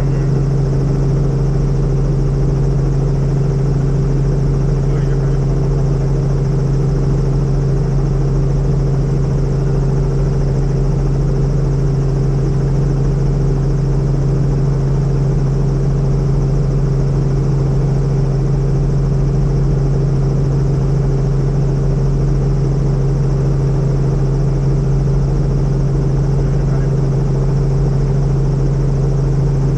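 Helicopter in flight: a loud, steady drone of rotor and engine with a constant low hum, unchanging throughout.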